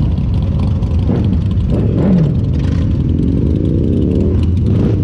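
Motorcycle engines running with a steady low rumble; about two seconds in, one engine's pitch drops, then an engine revs up with its pitch rising before easing off near the end.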